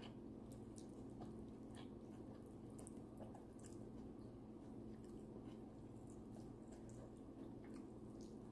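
Faint close-up eating sounds: scattered small wet clicks and smacks of chewing and of fingers picking apart a whole cooked tilapia, over a steady low hum.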